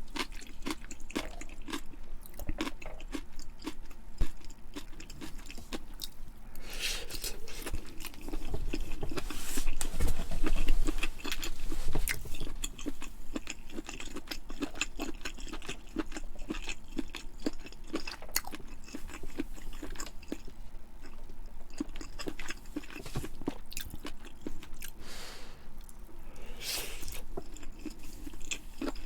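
A person chewing and biting food close to the microphone, with crunchy, crackling mouth sounds; the chewing is loudest about ten seconds in.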